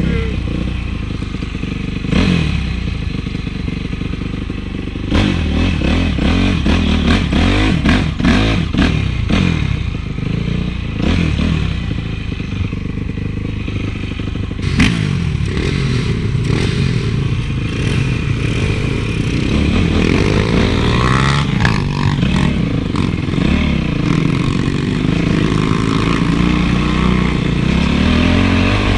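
Honda CRF450 single-cylinder four-stroke motocross engine revving up and down as the bike is ridden, with clattering knocks, most of them in the first half.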